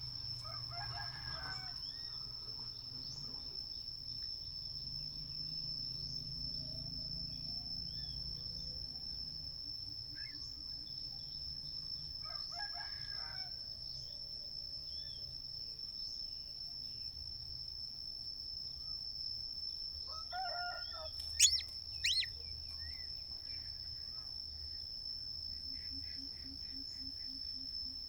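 A rooster crowing three times, at the start, in the middle and about two-thirds of the way in, over a steady high insect drone. Just after the last crow, two sharp, loud, high-pitched bird chirps.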